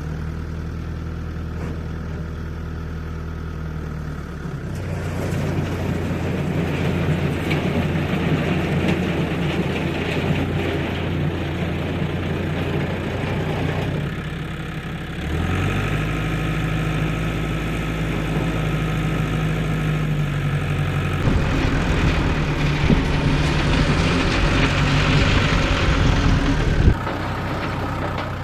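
Diesel engine of heavy working machinery running under changing load. The revs pick up about five seconds in, ease off and come back around the middle, work hardest in the last third, then fall back suddenly toward idle near the end.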